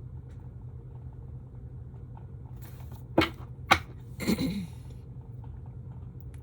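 Two sharp taps about half a second apart, a little past halfway, from tarot cards being handled and set down on a table, followed by a brief voice-like sound. A steady low hum sits underneath.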